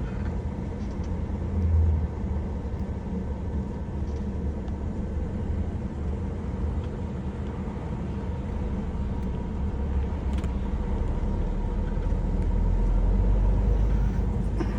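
Road vehicle driving, heard from inside the cab: a steady low engine and road rumble with a steady hum. There is a brief low swell about two seconds in, and the rumble grows louder near the end.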